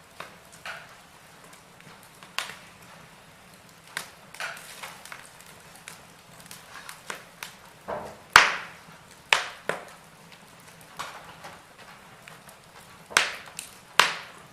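Wood fire in a fireplace crackling, with irregular sharp pops, several of them loud, about halfway through and twice near the end.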